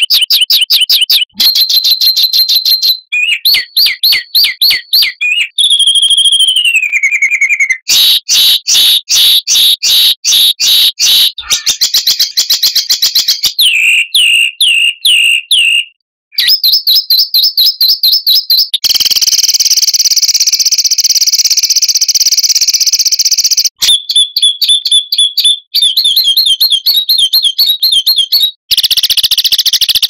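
Songbird songs spliced one after another, a new bird's clip every few seconds: mostly rapid repeated chirps and trills, with a whistle sliding downward a little after five seconds and a long, buzzy continuous trill from about nineteen to twenty-four seconds in.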